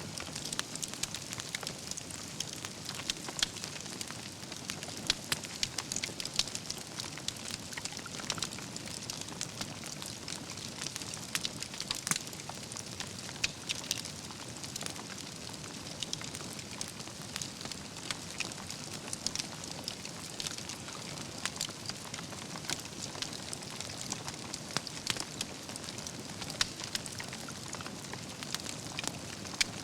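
Wood campfire burning, with a steady hiss and many irregular sharp crackles and pops from the burning logs.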